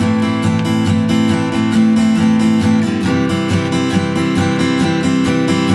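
Taylor 324ce acoustic guitar strummed in steady alternating down- and up-strokes in eighth notes, with a chord change about halfway through.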